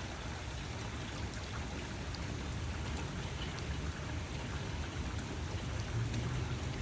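Steady rainfall with scattered individual drop taps, over a low rumble that swells slightly near the end.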